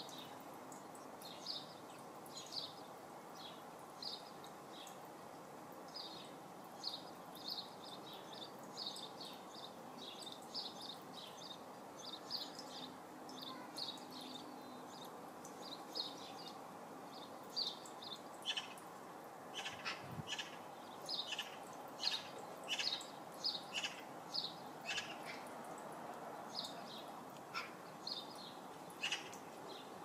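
Small garden birds chirping: short high notes repeated about once a second, coming faster and more densely from about two-thirds of the way through, over a steady background hiss.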